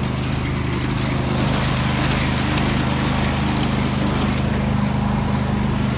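Craftsman GT5000 garden tractor's Kohler V-twin engine running steadily at an even speed.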